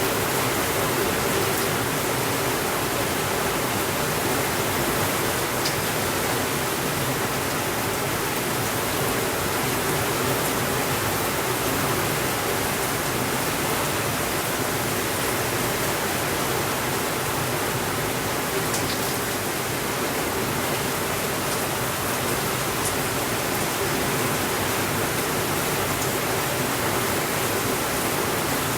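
Steady rainfall, an even hiss with no thunder. A few faint ticks come through on top.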